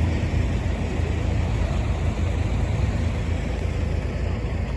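Motor vehicle running, a steady low engine and road rumble with no sudden events.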